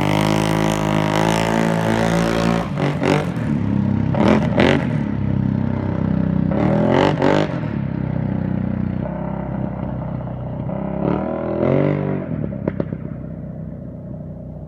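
2016 Can-Am XMR 1000R ATV's V-twin engine through an RJWC dual aftermarket exhaust, running and being revved in several quick blips, about four over the stretch, between steadier running. The sound grows gradually quieter near the end.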